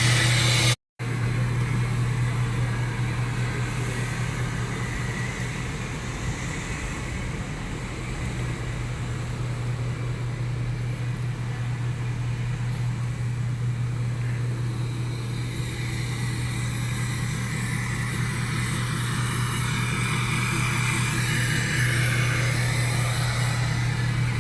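A motor vehicle's engine running at a steady speed, a constant low drone with no revving.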